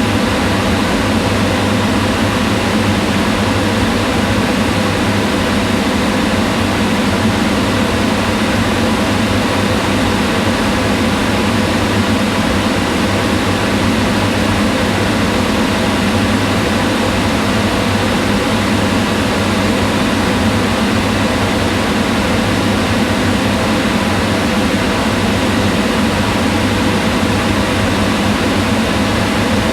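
Kitchen range hood extractor fan running steadily: an even whirring rush of air over a low hum.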